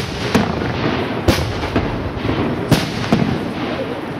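Aerial firework shells bursting, about five sharp bangs spaced unevenly over the few seconds, over a continuous noisy rush.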